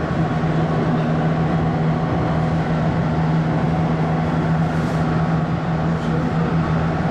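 Running noise inside a moving AREX Airport Railroad commuter train carriage: a steady rumble with a constant low hum.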